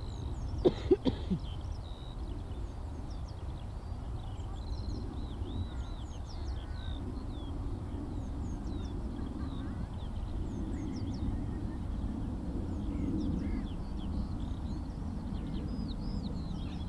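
Skylark song: a continuous stream of high chirps and trills. About a second in, a larger bird gives three loud, harsh calls. A low steady rumble runs underneath.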